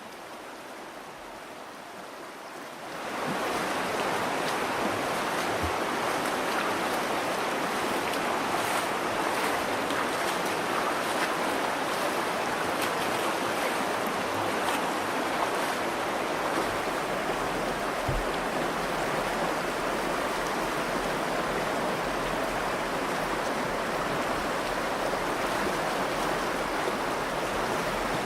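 Virgin River flowing over rocks in a steady rush, softer at first and suddenly louder about three seconds in.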